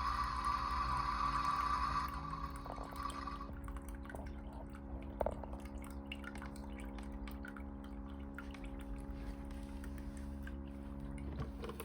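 Water running in a Theo Klein Bosch toy washing machine stops about three and a half seconds in. Scattered drips and small clicks follow over a steady low hum.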